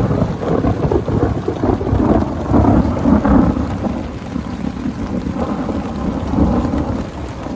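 A long rolling rumble of thunder over steady rain. The rumble fades gradually through the second half, leaving the patter of rain.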